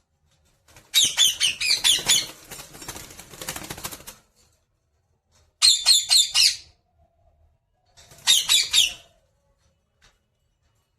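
A pet parrot giving three bursts of rapid, harsh, high-pitched screeching calls. The first burst is followed by about two seconds of softer scratchy noise.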